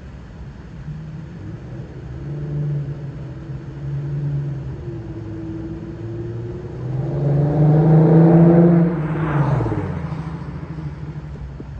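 Infiniti Q50's 3.7-litre VQ37VHR V6 with a muffler delete, driving past: the exhaust note grows as the car approaches, is loudest about eight seconds in, then drops in pitch and fades as it goes by.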